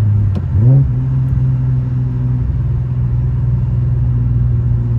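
Infiniti G37's V6 engine and road noise inside the cabin while driving: a steady low engine note that dips and then rises in pitch about half a second in, then holds steady.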